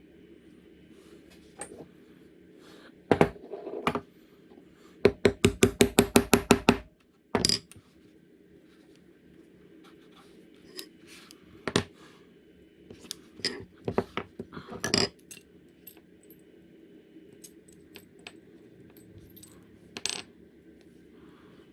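Sharp metallic taps and clinks of hand tools or metal parts on a workbench: a quick run of about a dozen taps, about seven a second, around five seconds in, with scattered single clicks before and after.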